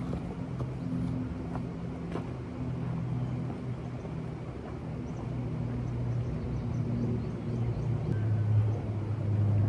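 An engine running with a steady low hum, getting louder near the end.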